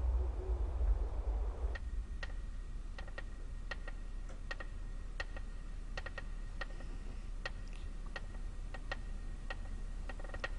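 Sharp ticking clicks at uneven intervals, about one or two a second, starting about two seconds in after a low rumble fades out. In the scene this is the unexplained noise heard in the mansion.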